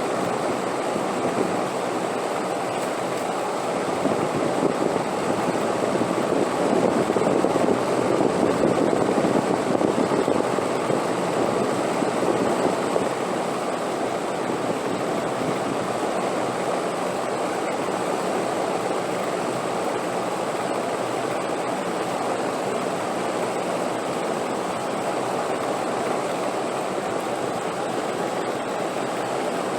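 Wind blowing in a steady rush, swelling into a stronger gust about four seconds in and easing back down after about thirteen seconds.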